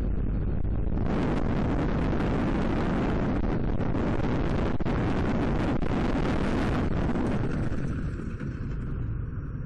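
Loud rumbling road and wind noise from a moving vehicle, picked up by a dashcam microphone, with crackles throughout. About eight seconds in it drops to a quieter, lower rumble.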